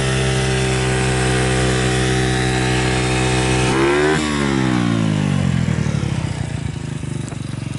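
Honda Solo's small four-stroke single-cylinder engine, breathing through an aftermarket Advance Pro full exhaust, running steadily at raised revs. About four seconds in it is blipped briefly, then the revs fall back to a slow idle with each firing pulse audible. It runs without any abnormal noise, as the seller claims.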